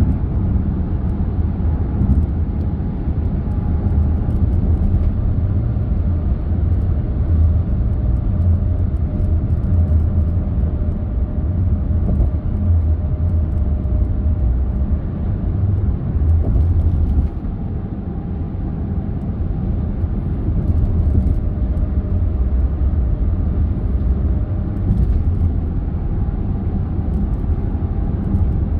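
Car driving: a steady low rumble of road and engine noise, dropping a little in level about seventeen seconds in.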